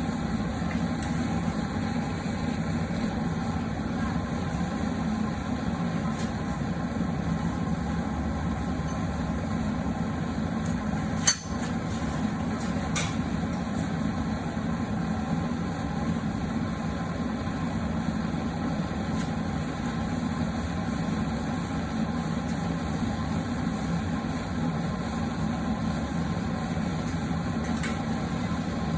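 Steady low drone of a running forge in a blacksmith shop, with a single sharp metallic clink about eleven seconds in and a fainter one shortly after, as the hot hook blank is twisted in a leg vise.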